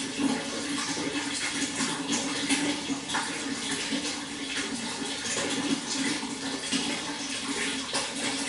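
Water flowing steadily, a continuous splashing rush with fine crackles throughout.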